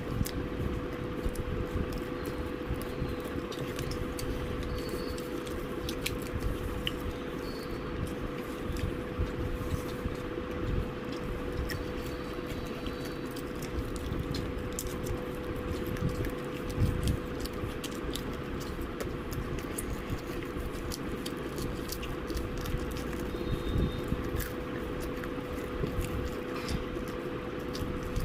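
A person eating KFC fried chicken: chewing and biting with many small crisp clicks and crunches, over a steady hum.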